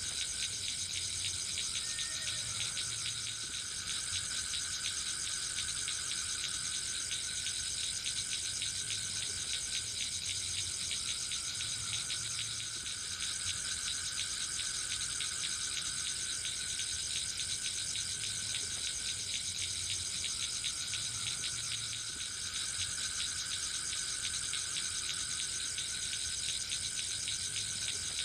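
Forest insects calling in chorus: a steady, high, rapidly pulsing trill, with a lower band that swells and fades every few seconds.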